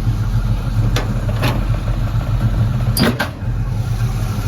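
350 small-block Chevy V8 idling steadily through Flowmaster dual exhaust. A few sharp clicks come about a second in and again about three seconds in.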